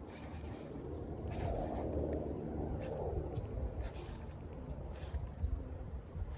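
A bird calling outdoors: three high notes, each sliding downward, about two seconds apart, over a low steady rumble.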